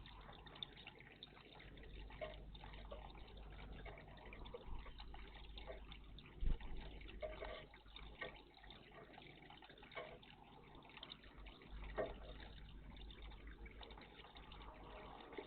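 Water in a garden bird bath splashing and dripping in small, irregular bursts, with a sharper splash about six and a half seconds in and another about twelve seconds in.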